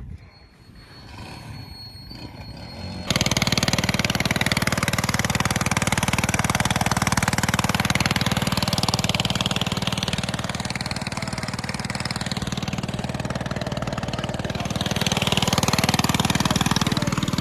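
River ferry boat's engine running loudly and steadily with an even low pulse; it cuts in suddenly about three seconds in after a quieter start.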